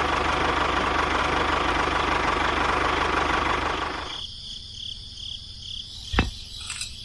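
A small motor running steadily, then cutting off about four seconds in. A single sharp knock comes near the end.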